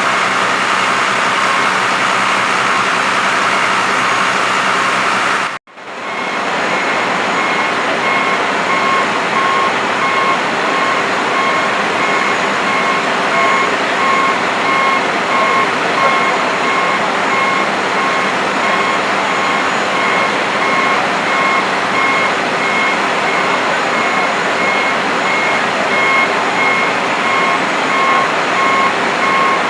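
A heavy truck's engine running loudly under its reversing alarm, which beeps steadily about once a second. The beeping starts after a brief break in the sound about five seconds in.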